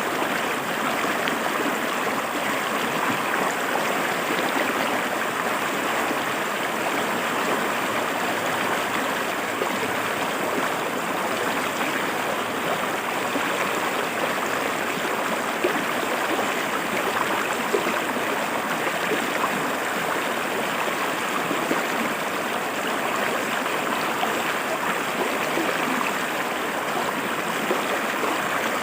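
River water flowing and splashing over rocks in a steady, even rush.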